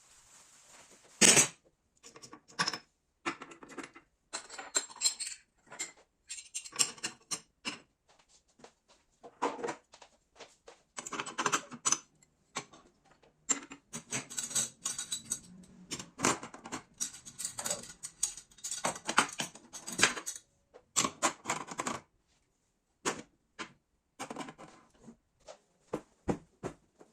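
Clinking and clattering of dishes and kitchen items being handled and set down, in quick runs of sharp knocks broken by sudden silences.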